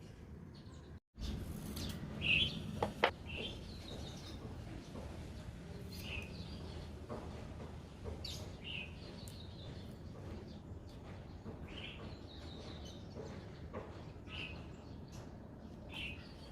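Birds chirping in short, scattered calls over a steady low hiss; the sound drops out for a moment about a second in.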